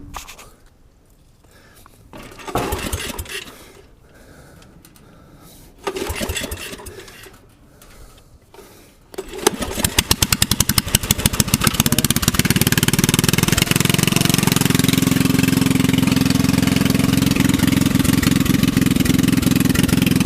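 Small lawnmower engine, just primed with starter fluid, cranked twice without catching, about two and six seconds in, then firing about nine seconds in and settling into steady running.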